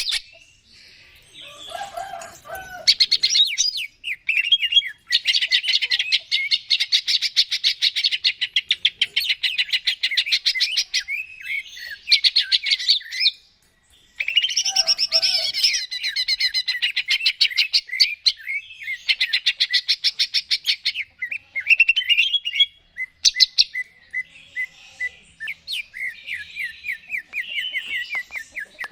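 Green leafbird (cucak ijo) singing in long runs of rapid, chattering notes, broken by short pauses, with a few lower notes mixed in.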